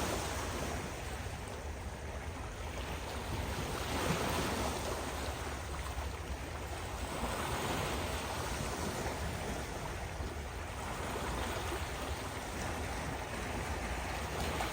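Ocean surf: waves breaking and washing in as a continuous rushing noise, swelling with each breaker every few seconds over a steady low rumble.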